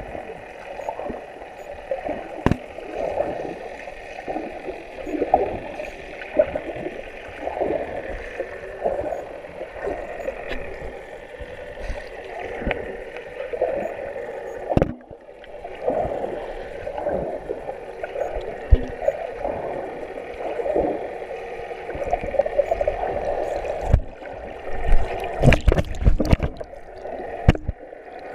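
Tow boat's motor running with water rushing past the hull, steady throughout. A few sharp knocks come together about 25 to 27 seconds in.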